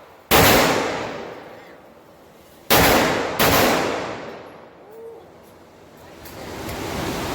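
Three handgun shots: one, then two more about two and a half seconds later in quick succession, each with a long echoing decay.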